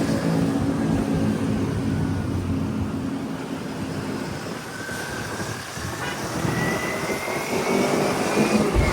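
Motorbike engine running on the move in traffic. Its steady hum fades about halfway through, and a slowly rising whine comes in.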